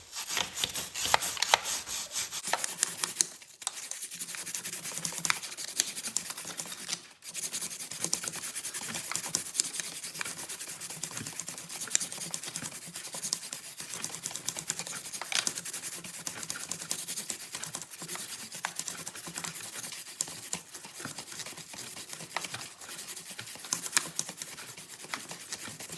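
A brush scrubbing a motorcycle drive chain soaked in chain cleaner: a steady, rapid scratching, with brief pauses about three and a half and seven seconds in.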